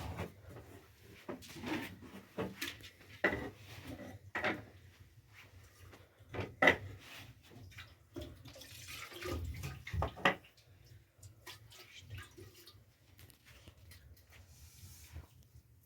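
A series of irregular knocks and clatters, the loudest about six and a half and ten seconds in.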